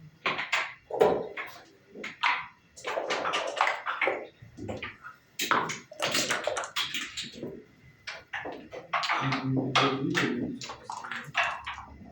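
Backgammon play: dice rattling and being thrown onto the board, and checkers clacked down, heard as an irregular run of sharp clicks and short rattles.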